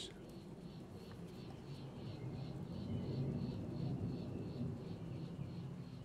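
Faint outdoor bird sounds: a low cooing under a short high chirp repeated about three to four times a second.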